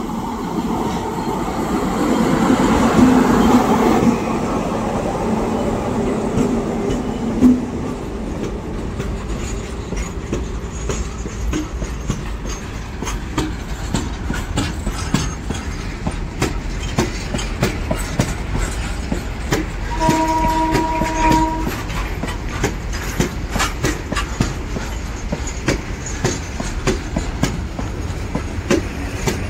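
An Indian Railways electric locomotive passes close, loudest in the first few seconds. A long rake of open-top freight wagons follows, rattling by with a rapid, uneven clickety-clack of wheels over the rail joints. A train horn sounds once, briefly, about twenty seconds in.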